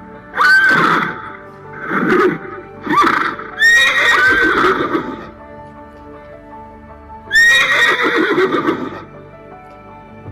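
Horse neighing about five times: three short neighs, then two longer whinnies starting about four and seven seconds in, over background music.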